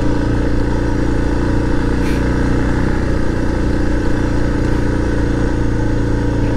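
Suzuki DR650's single-cylinder four-stroke engine running at a steady cruise, with no revving up or down.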